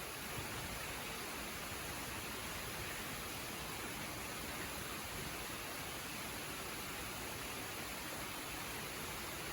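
Waterfall rushing steadily, an even hiss of falling water with no change.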